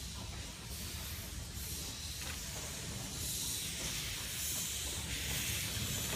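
Steam hissing from a narrow-gauge steam locomotive, No.12 Hutchinson, growing louder about halfway through, over a low rumble.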